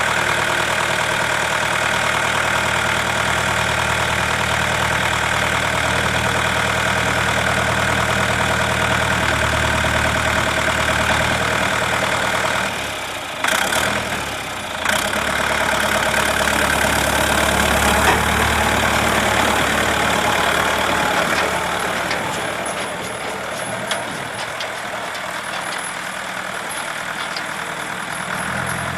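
A 35/40 hp diesel tractor engine running steadily. Its sound dips briefly about halfway through, with a couple of sharp clicks.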